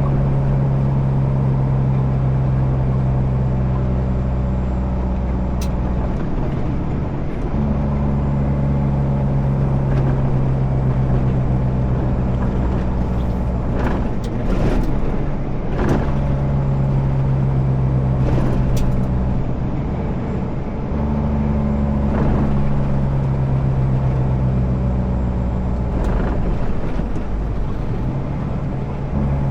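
Semi truck's diesel engine running under way. Its steady low drone shifts every few seconds, around 7, 16, 21 and 29 seconds in, and a few brief clicks come in the middle.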